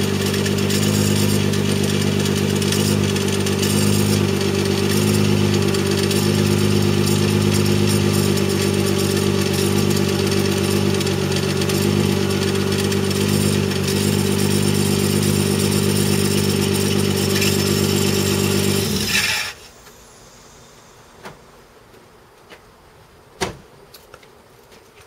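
1993 Mazda MX-3's 1.8 V6 engine idling steadily, with an electrical load from the power window switch held against a closed window, then cutting off suddenly about 19 seconds in. A few light clicks follow.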